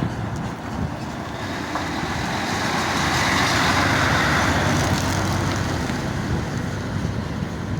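A heavy vehicle's engine rumble with a hissing noise that builds to a peak about halfway through and then fades, as a large vehicle passing close by would sound.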